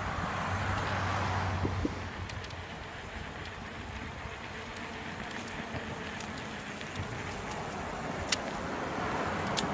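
Steady rushing noise of a bicycle free-rolling, with wind on the phone's microphone and tyres on the ground. Two sharp clicks come near the end.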